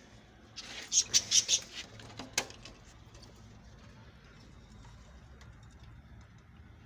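Budgerigars chirping: a quick run of short, shrill calls about a second in, then a single sharp click, then only faint chirps.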